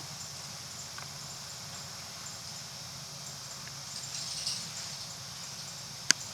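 Inside a city bus cabin: the bus's engine keeps up a steady low hum under a constant hiss, with light rattles around the middle and two sharp clicks, one right at the start and one near the end.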